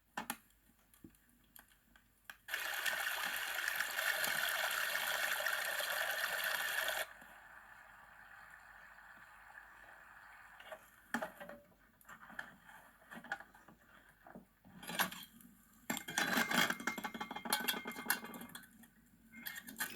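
Water pouring in a steady stream for about four and a half seconds, starting and stopping abruptly, followed later by scattered knocks and handling noises.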